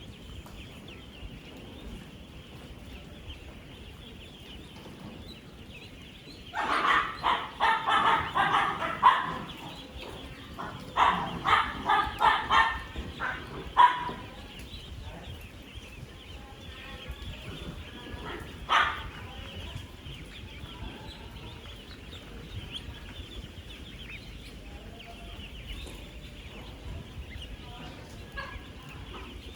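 Massed peeping of thousands of ten-day-old ducklings, a steady high chatter. About seven seconds in and again about eleven seconds in come two runs of loud, rapid repeated calls from a larger animal, with one more call near nineteen seconds.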